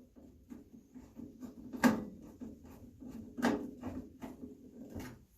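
Knocks, clunks and small rattles of parts being handled during an over-the-range microwave install, with three louder clunks about two, three and a half and five seconds in.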